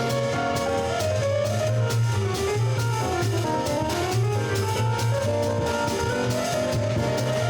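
Jazz quartet playing, with drum kit and cymbals keeping time under a low bass line and a melody that dips midway and climbs back up.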